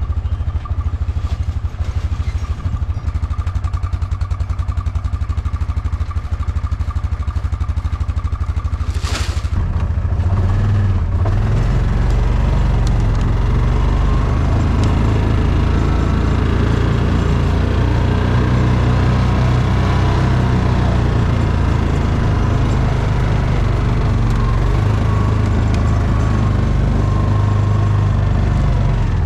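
A vehicle engine running steadily with a low pulsing note; about nine seconds in there is a brief hiss, after which the engine runs louder and deeper.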